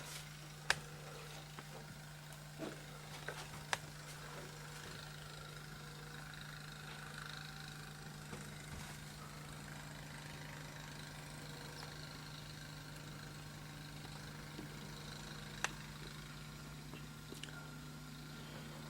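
A steady low hum under faint background hiss, with a few sharp clicks or knocks: one near the start, a couple around three to four seconds in, and two more near the end.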